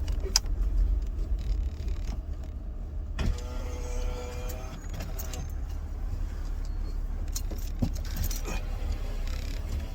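Low steady rumble of a car heard from inside the cabin, with small clicks and rattles over it.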